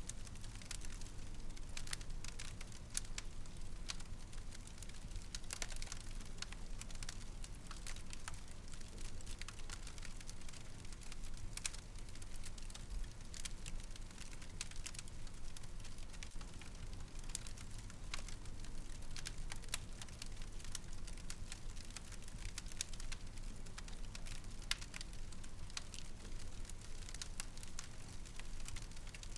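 Wood fire crackling in a fireplace: irregular small pops and snaps come every fraction of a second over a low, steady rumble of the flames.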